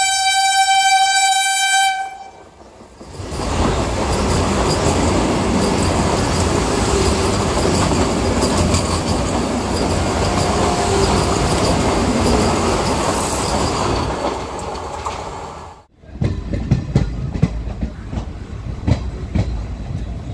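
Vande Bharat Express electric train sounding its horn in one steady high blast that ends about two seconds in. The train then passes close by, a loud, dense rush of train noise lasting about twelve seconds. This cuts off abruptly and gives way to uneven rumbling with scattered clicks.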